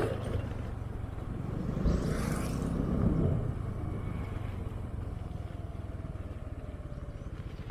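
Small motorcycle engine running steadily while riding, with wind noise on the microphone; a louder rush of wind swells about two seconds in and fades.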